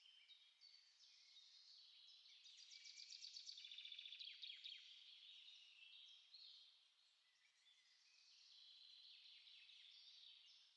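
Quiet songbird chorus: several small birds chirping and warbling at once, with a fast trill rising in loudness about three seconds in and easing off around the middle.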